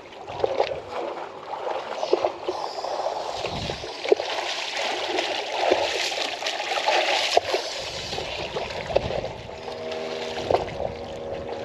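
Water splashing and gurgling with many small clicks, steady throughout; a faint steady hum joins near the end.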